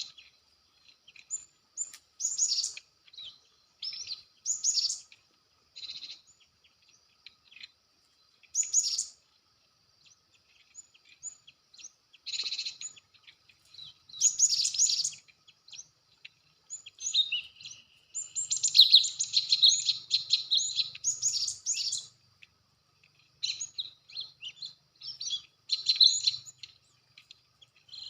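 Small songbirds chirping and calling in short, repeated phrases, with a dense stretch of calling about two-thirds of the way through. A faint, steady high-pitched tone runs underneath.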